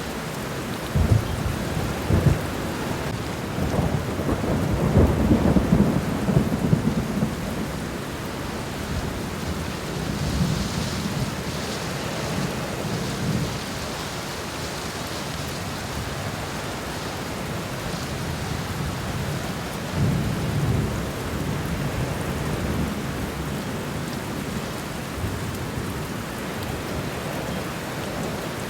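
Steady rain falling on the ground and leaves, with low rumbles of thunder swelling about four to seven seconds in and again around twenty seconds.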